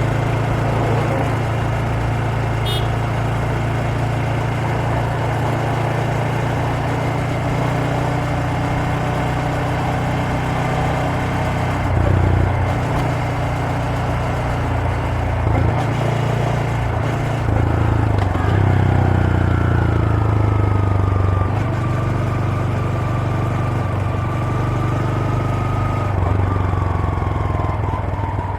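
Honda Grom (MSX125) 125 cc single-cylinder four-stroke engine and exhaust running under way at a fairly steady pace, with a few changes in engine note as the throttle is worked partway through. A faint high whine slides slowly down in pitch in the second half.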